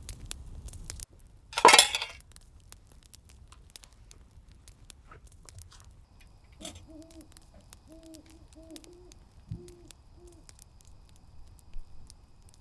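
A series of about seven short, low hoots from an owl, a few seconds in, over faint crackling clicks. Earlier, one loud, short hiss, like a can of beer being cracked open.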